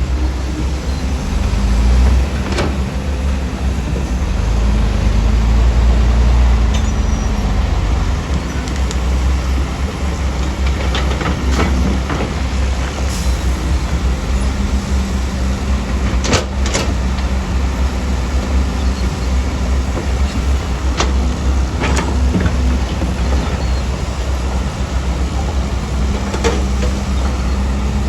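Diesel engine of heavy earthmoving machinery running under changing load, its low rumble swelling and easing, with a few sharp metallic clanks.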